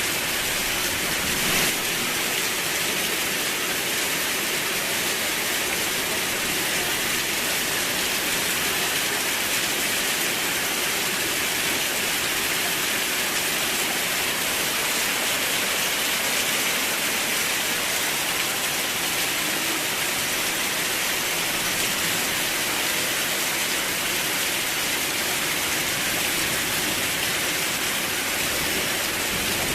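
Steady rain, an even, unbroken hiss, with one brief sharp tap about a second and a half in.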